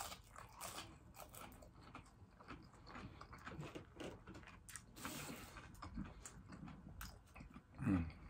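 A person chewing crispy fried butterfly shrimp: a run of small crunches and wet mouth clicks, with a brief hum of the voice near the end.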